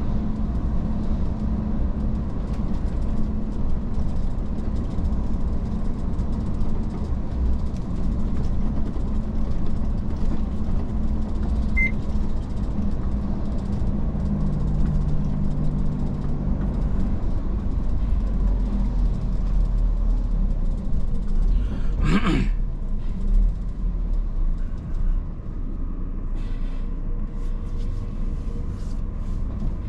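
Iveco S-Way truck on the move: steady low rumble of the diesel engine and road. A short sharp noise cuts through about two-thirds of the way in.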